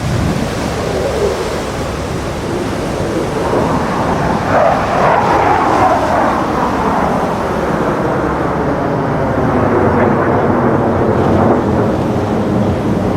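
Roar of USAF Thunderbirds F-16 fighter jets passing overhead. The noise swells about four seconds in with a whine that sweeps down in pitch as they go by, then carries on as a heavy rumble.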